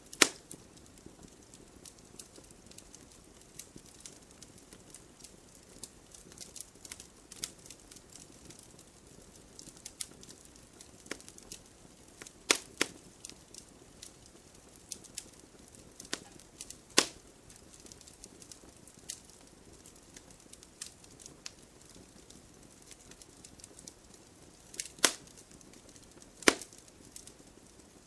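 Wood fire crackling: irregular sharp pops and snaps over a faint steady hiss, with a few louder pops now and then.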